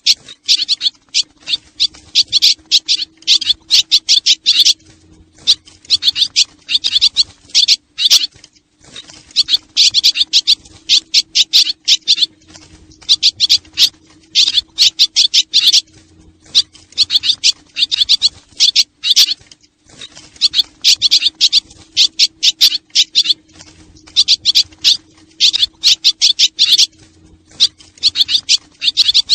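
Swallows twittering: dense bursts of rapid, high chirps that come in short groups every second or two, with brief pauses between, over a faint steady low hum.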